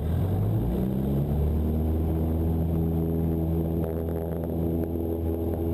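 Cessna 172's piston engine and propeller coming up to power, the pitch rising over about the first second and then holding steady at a constant drone. This is typical of throttle applied for the takeoff roll of a touch-and-go.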